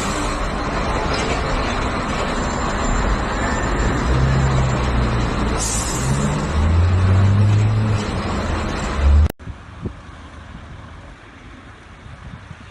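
Heavy vehicle engine running loudly amid dense road and mechanical noise, its pitch stepping up as it revs about six seconds in. It cuts off abruptly about nine seconds in, leaving fainter vehicle noise.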